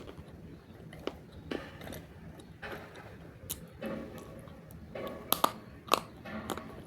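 Close-up biting and chewing of roasted multani mitti (fuller's earth clay): irregular sharp crunches with gritty grinding between them, and a quick run of louder crunches about five seconds in.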